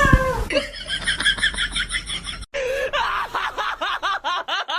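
High-pitched laughter in rapid ha-ha-ha pulses, about six a second. It cuts off suddenly about halfway, and another run of quick giggling laughter starts right after.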